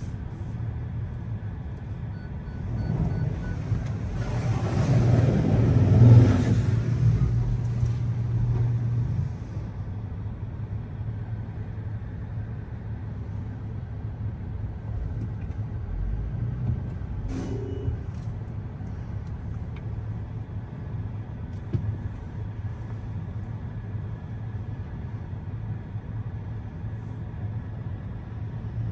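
A motor vehicle running with a steady low hum. A rushing swell builds a few seconds in, peaks, and drops away by about nine seconds, as a vehicle moves close by. A single sharp click comes midway.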